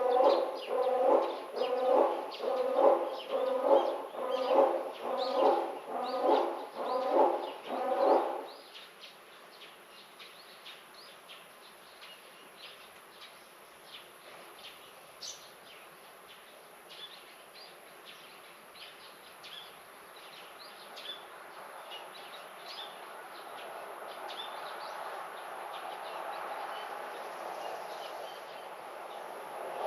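Outdoor garden ambience with small birds chirping throughout. For the first eight seconds a louder animal call repeats steadily, about twice a second, then stops. Near the end a soft rush of noise slowly rises.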